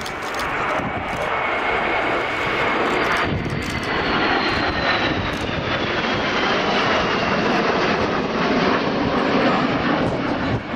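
Panavia Tornado jets flying past, their twin RB199 turbofan engines building to a loud, steady jet noise over the first couple of seconds. A high whine slowly falls in pitch as they pass.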